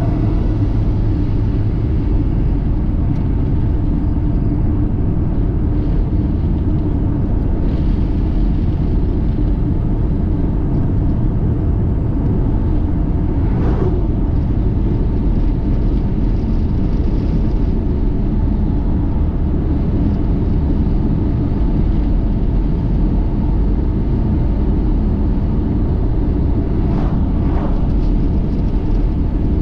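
Steady low rumble of a car being driven, road and engine noise at an even level, with two brief fainter higher sounds, one about halfway through and one near the end.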